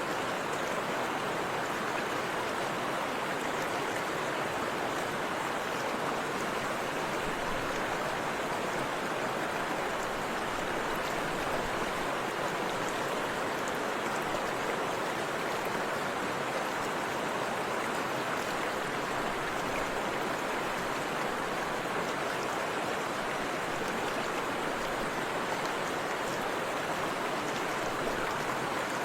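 Forest river and waterfall flowing, a steady even rush of water.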